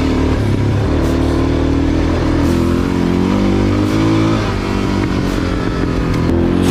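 Suzuki DR dual-sport motorcycle's single-cylinder engine running on a rocky trail, its revs rising and falling as the throttle is worked.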